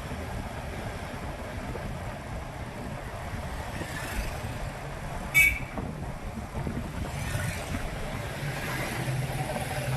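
Street traffic and motorbike engine rumble, with one short, loud vehicle horn honk about five seconds in.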